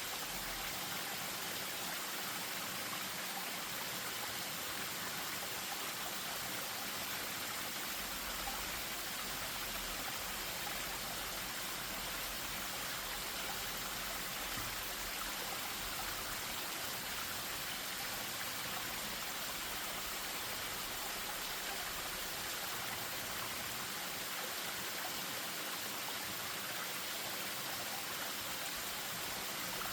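Spring-fed stream spilling over a small waterfall: water running with a steady, unchanging rush.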